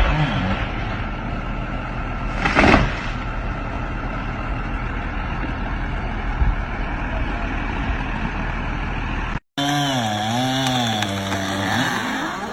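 A steady engine running under dense noise, with one loud crash about two and a half seconds in. After a sudden cut, a chainsaw engine revs up and down.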